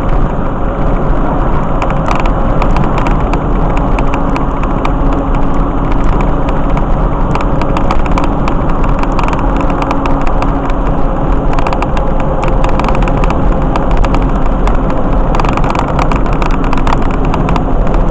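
Wind rushing and road noise through an open car window while driving at highway speed, with a steady hum from the car underneath. The noise is loud and unchanging, with frequent small crackles of wind buffeting the microphone.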